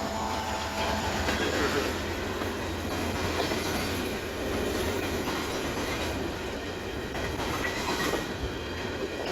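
Empty coal train's freight cars rolling past close by: a steady rumble and clatter of steel wheels on the rails.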